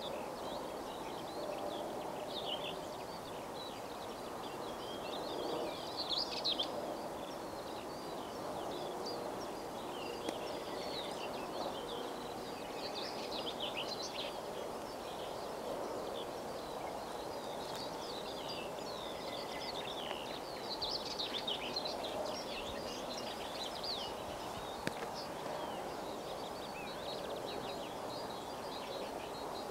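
Several songbirds chirping and singing over a steady background hum of outdoor noise.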